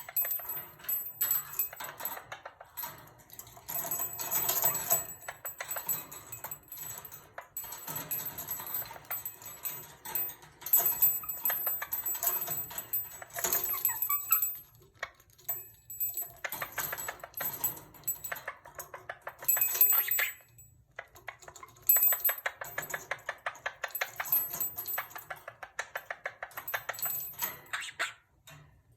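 Quaker parrot playing with a toy: bursts of rapid clicking and metallic jingling a few seconds long, repeated with short pauses between.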